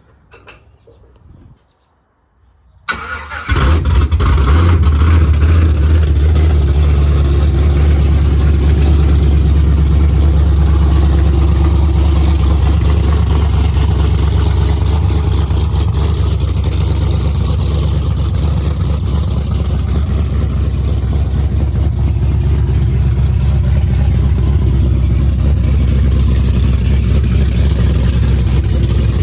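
Cammed LS2 V8 in a 2009 Sierra pickup cold-starting about three seconds in, then idling loud and steady with a deep, even rumble. It is running untuned and with no exhaust fitted.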